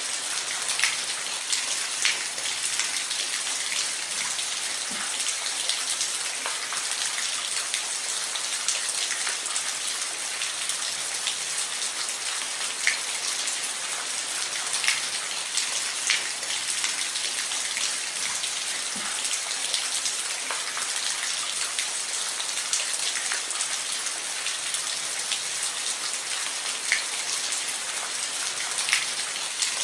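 Steady rain falling on a roof: an even hiss with scattered sharper taps of individual drops.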